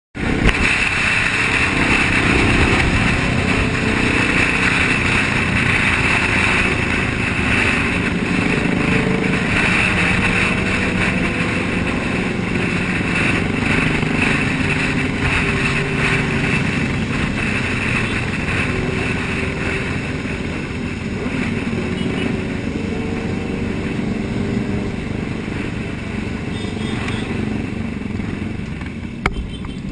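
A group of motorcycles riding at speed, engines running steadily with their pitch drifting up and down as the riders throttle.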